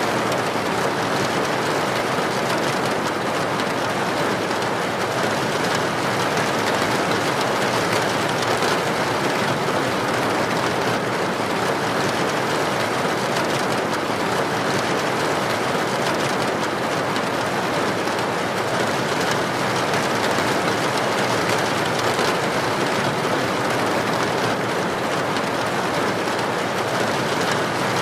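Steady, unbroken rain noise: an even hiss with no single drops or breaks standing out.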